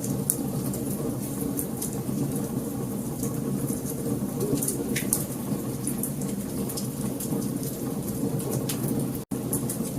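Wood fire burning: a steady low rumble of flames with frequent small pops and snaps from the burning firewood. The sound cuts out for an instant near the end.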